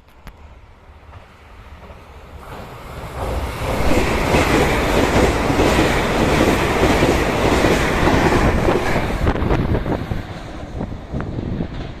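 A train passing close by on the track, its wheels clattering over the rails: it swells up over the first few seconds, is loudest for about five seconds in the middle, then eases off into separate clicks of the wheels near the end.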